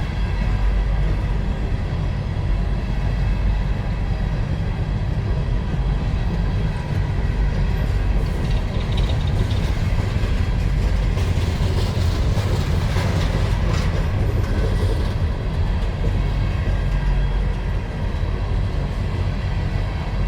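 Freight train of empty mine cars rolling past on the rails: a steady, heavy low rumble with thin steady ringing tones above it. A brighter hissing swell rises and fades in the middle.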